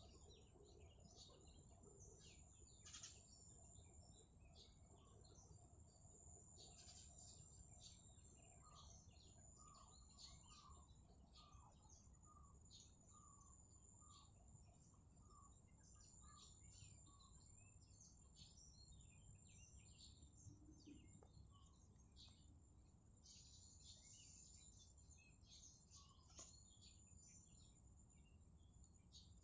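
Faint chorus of small birds chirping, over a steady high insect trill. For several seconds in the middle, another bird repeats a lower note about twice a second.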